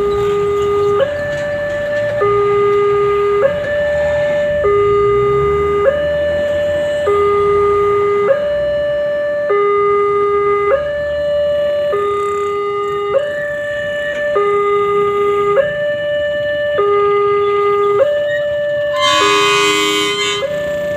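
Railway level-crossing warning alarm sounding, a two-tone electronic signal switching back and forth between a low and a higher tone about every second, warning that a train is coming. Near the end a short, loud horn blast cuts in over it.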